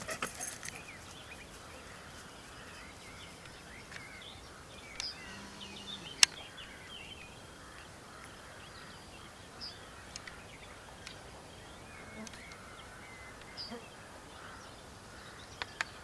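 Faint field ambience with scattered bird chirps and calls, broken by a few sharp clicks, the loudest about six seconds in and a pair near the end.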